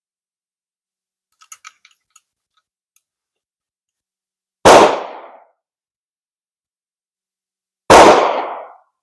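Two black-powder rifle shots about three seconds apart, each a sharp blast that dies away over less than a second. A few faint clicks come before them.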